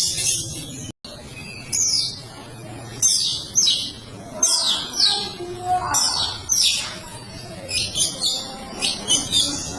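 Long-tailed shrike (cendet) singing: a series of sharp chirps, each sweeping down in pitch, about two a second, with a brief break about a second in.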